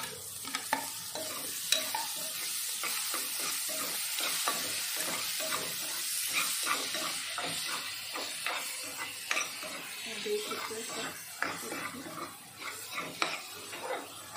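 Freshly added chopped tomatoes sizzling in hot oil with fried onion masala in a kadhai, while a spatula stirs them, scraping the pan again and again. The sizzle is a steady hiss, and the scraping strokes stand out more in the second half.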